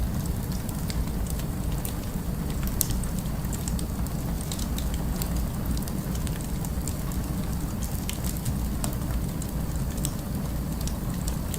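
Fireplace crackling, with scattered sharp pops and snaps, over a steady low rumble of city ambience.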